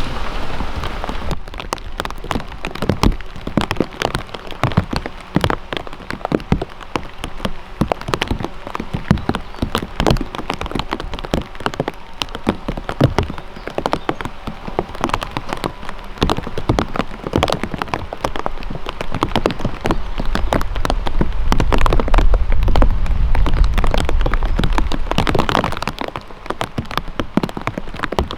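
Rain falling, with many separate drops striking hard close by in an irregular patter of sharp taps. A low rumble swells for a few seconds about two-thirds of the way through.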